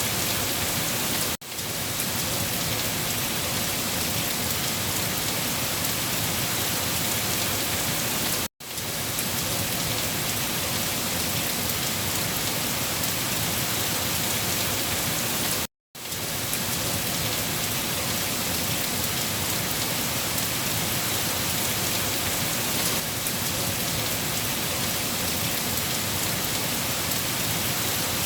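Steady heavy rainfall, an even hiss of rain on a surface. It cuts out briefly three times, each time fading quickly back in.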